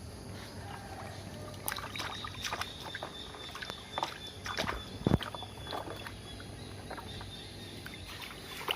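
Water sloshing with scattered light knocks and clicks of plastic toy vehicles being handled and washed, busiest in the middle and quieter near the end.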